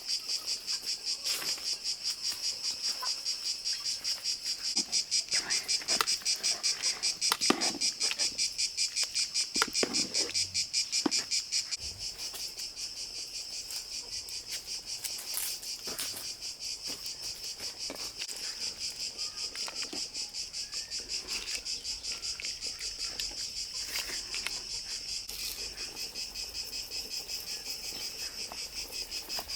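Crickets chirping in a steady pulsing rhythm, with scattered short knocks and clicks over them, busiest in the first half.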